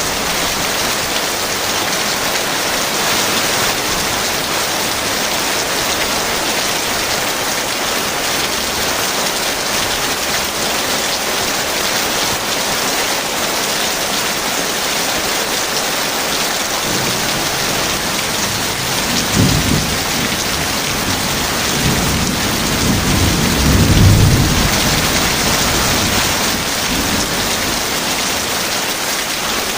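Heavy rain falling steadily, with a clap of thunder about two-thirds of the way through followed by a low rolling rumble that swells and peaks a few seconds later.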